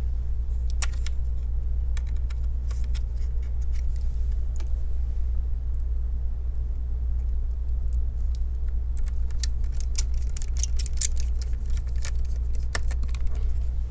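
Scattered small clicks and light metallic ticks of a screwdriver and screws being handled while a laptop is put back together, over a steady low hum.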